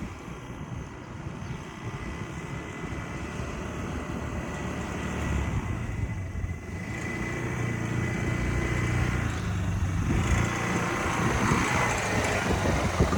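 Quad bike engine running, growing gradually louder.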